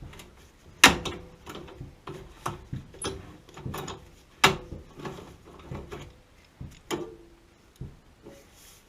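Metal tools knocking and clinking on metal in a series of irregular clicks and knocks, with three sharp clanks about a second in, halfway through and near the end that ring briefly.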